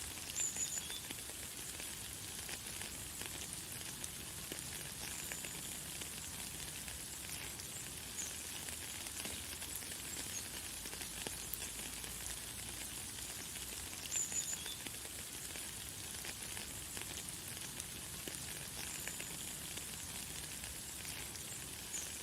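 Light, fine rain falling steadily as an even hiss, with a few short, high bird chirps, the clearest about half a second in and about fourteen seconds in.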